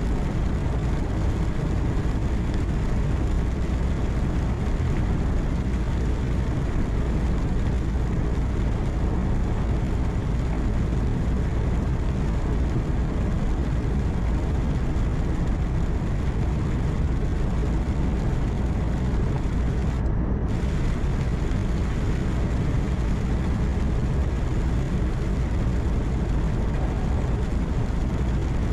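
Steady cab noise of a truck driving at highway speed: a low engine hum with tyre and road noise, even throughout. About twenty seconds in, the high end drops out for half a second.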